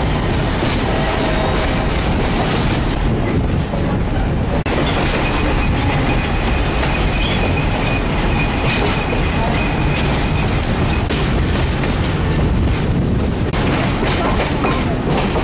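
Passenger train coach rolling along the track, heard from on board: a steady, loud running noise of wheels on rail, with a faint, thin, high squeal for a few seconds in the middle.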